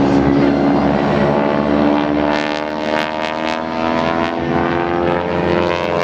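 Propeller airplane engine running as the plane flies past, its pitch sliding slowly downward.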